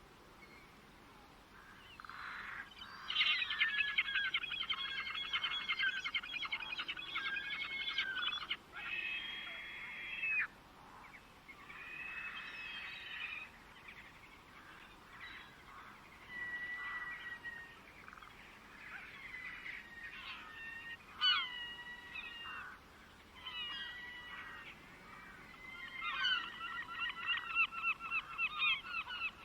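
Birds calling: after a quiet start, a long run of rapid chattering notes, then scattered shorter calls, and another rapid chattering run near the end.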